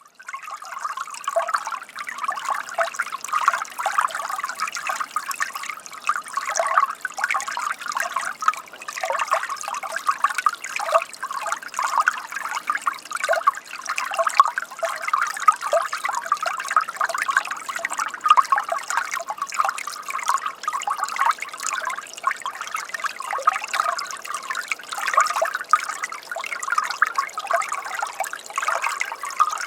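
Water trickling and gurgling steadily.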